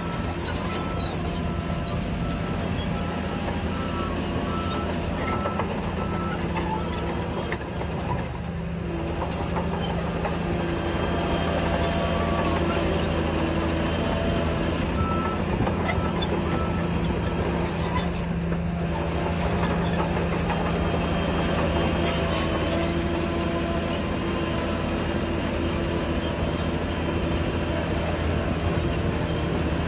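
Diesel engine of heavy earthmoving equipment running steadily under load, a little louder from about ten seconds in. A reversing alarm beeps evenly through the first several seconds and again briefly midway.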